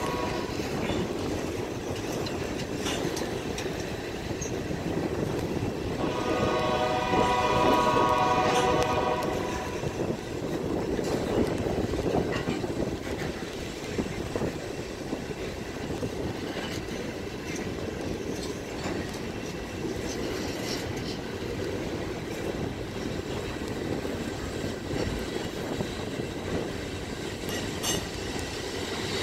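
Loaded ballast hopper cars of a freight train rolling slowly past with a steady rumble. A train horn chord sounds once, from about 6 to 10 seconds in.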